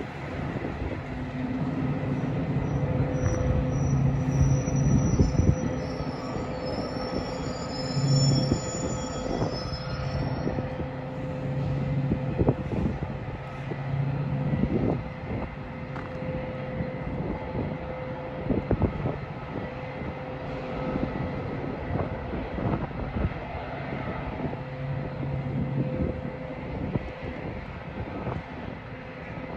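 Metra commuter train rolling through the station, its wheels clicking over rail joints. High-pitched wheel squeal runs through roughly the first ten seconds, over a steady low hum.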